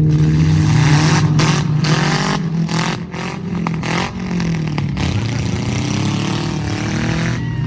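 Demolition-derby vehicle engines running and revving, with a string of sharp bangs and knocks in the first half.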